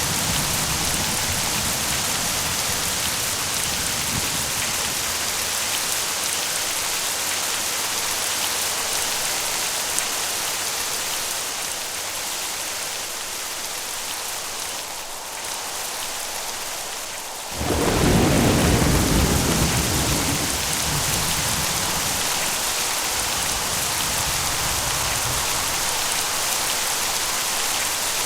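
Steady heavy rain hissing on surfaces, with a loud crack of thunder a little past the middle that rolls into a low rumble and fades over a few seconds.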